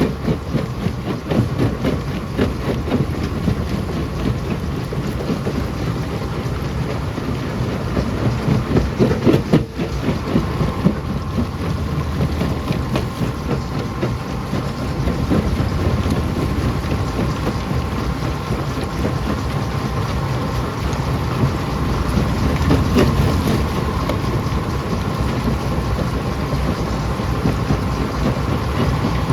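Rock crusher running, with a dense clatter of rocks breaking and grinding over a heavy machine rumble. A steady whine comes in about ten seconds in.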